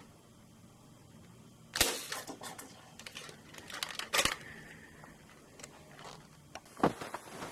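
Nerf blasters being primed and fired: a run of sharp plastic clacks and snaps, with a loud one about two seconds in, a cluster around four seconds, and another loud one near the end.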